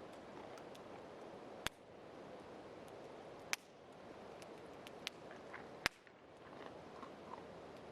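Three sharp cracks, roughly two seconds apart, with a few fainter ticks between them, over a steady rushing noise of wind and rain.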